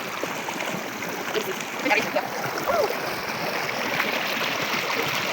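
River water running steadily, a dense, even rushing noise.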